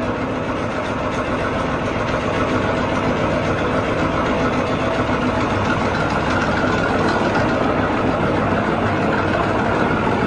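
Tractor engine idling steadily, a continuous low mechanical rumble that stays even throughout.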